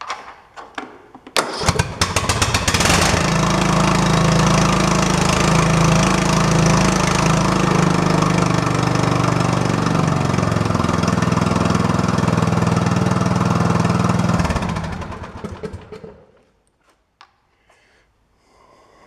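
Craftsman riding lawn mower engine cranked by its starter, catching after about a second and a half, running steadily for about eleven seconds, then shut off and winding down. It is run briefly after an oil change so the new oil filter fills with oil.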